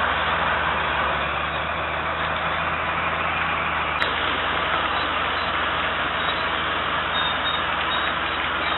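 Heavy diesel machinery engine running steadily, with a brief sharp click about four seconds in.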